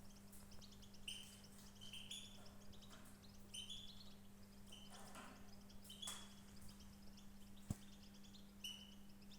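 Small birds chirping faintly, repeating short high two-note calls over and over, with a steady low hum underneath and one sharp click about three-quarters of the way through.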